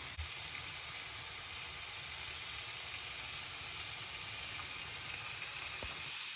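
Chicken frying in a pan, a steady sizzle that keeps an even level throughout.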